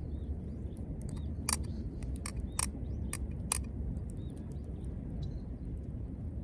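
Wood fire crackling, with about five sharp pops of burning wood one to three and a half seconds in, over a steady low rumble.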